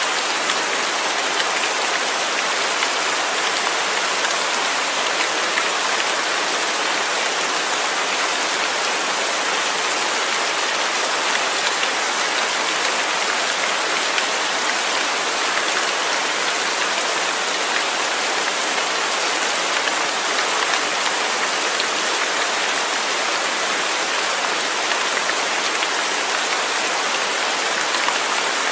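Rain falling steadily, an even hiss of many drops with no let-up or change.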